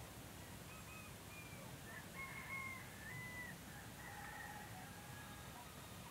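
Faint distant bird calls: a series of short, drawn-out notes from about a second in until near the end, over a steady low background rumble.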